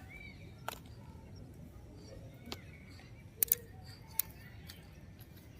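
A handful of sharp clicks, five in all with two in quick succession a little past halfway, over low background noise, with a few faint high chirps.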